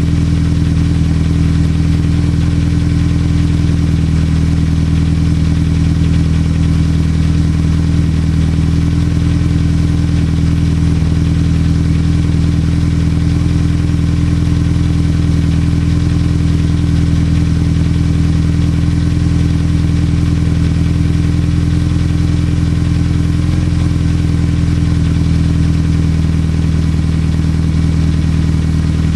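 Mitsubishi Lancer Evolution VIII MR's turbocharged four-cylinder engine idling steadily through a Milltek aftermarket exhaust and C-Tech manifold, a low, even note with no revs.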